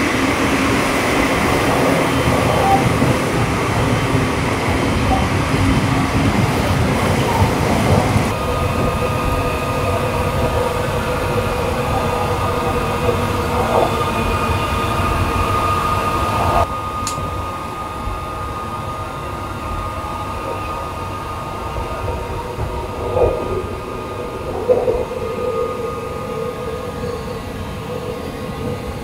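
Train running on rails: a steady noise with a faint steady whine. The sound shifts abruptly about eight and seventeen seconds in and is quieter after the second change.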